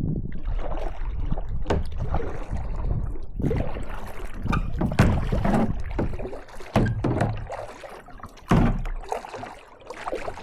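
Kayak paddling: water swishing and splashing off the paddle blades, with several sharp knocks, the loudest about halfway and near the end, typical of the paddle striking the kayak.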